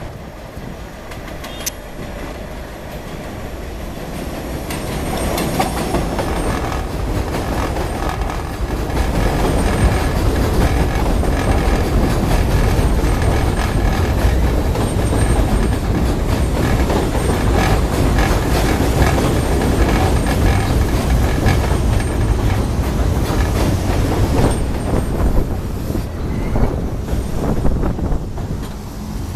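R42 subway train pulling into an elevated station on steel rails. It grows louder over the first several seconds, stays loud for most of the time, then quietens near the end as it slows.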